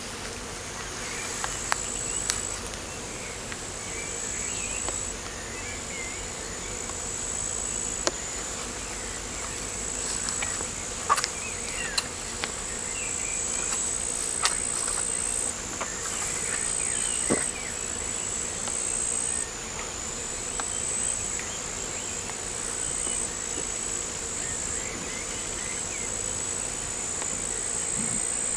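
A high-pitched insect trill runs without a break, with its pitch shifting slightly every second or two, over a faint outdoor background with scattered short bird chirps and a few sharp ticks.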